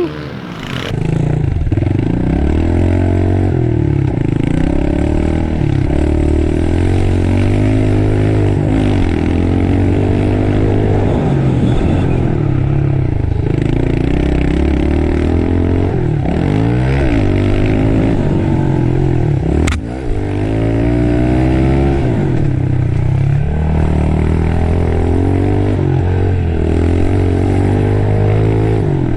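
Small four-stroke pit bike engine being ridden hard, its pitch climbing and dropping over and over as the throttle is opened and closed. A single sharp click about twenty seconds in.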